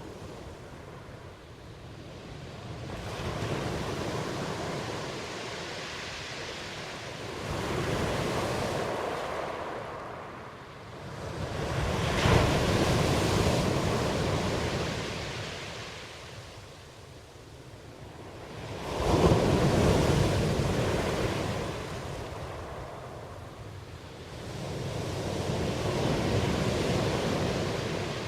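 Ocean waves breaking and washing ashore in slow swells, about five in all, the loudest two sharp crashes about 12 and 19 seconds in.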